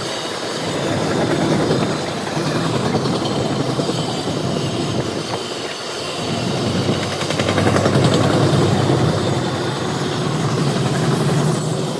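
Freight train cars rolling past on the track, a steady rolling rumble that swells and eases.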